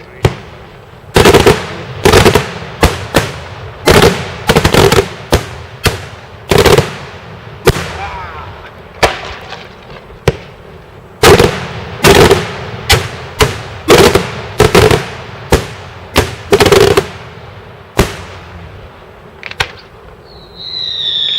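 Daytime fireworks: a rapid, irregular series of loud bangs from exploding shells, at times two a second, each trailing off in a short echo. Near the end the bangs thin out and several falling whistles begin.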